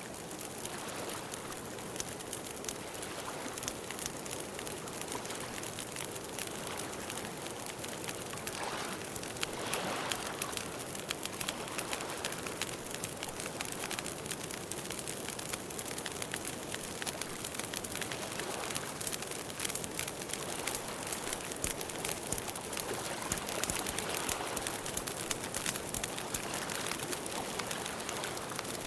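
Campfire burning, a steady crackle of small snaps and pops over a soft hiss.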